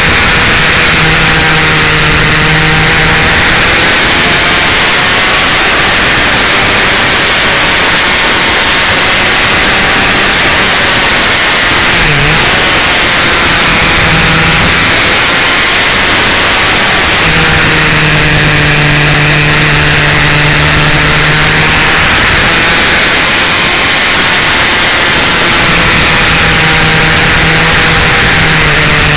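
Motorcycle engine running at road speed, its revs rising and falling through the bends, under loud wind rush on the bike-mounted microphone.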